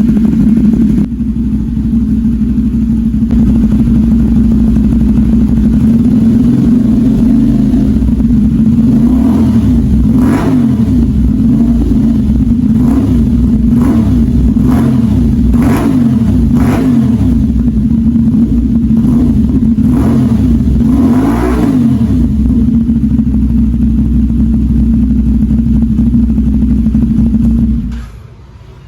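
CFMoto 450SR parallel-twin motorcycle engine running through an aftermarket SC Project exhaust: a steady idle, then a run of about ten quick throttle blips, each rising and falling back to idle, before the engine is switched off near the end.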